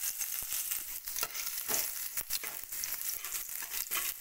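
Chopped ginger sizzling in hot oil in a metal kadai, with a spatula stirring and scraping against the pan in short, irregular strokes over the steady frying hiss.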